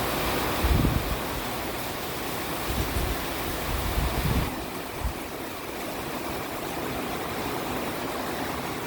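Steady rushing noise of Hurricane Ian's wind and rain, with short low rumbles of gusts on the microphone a few times in the first half.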